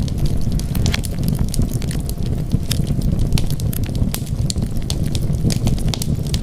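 Wood fire crackling: frequent sharp pops and snaps, several a second, over a steady low rumble of the burning fire.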